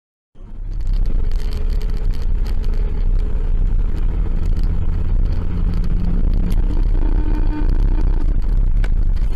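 Car driving: a steady low rumble of engine and road noise that starts abruptly about a third of a second in.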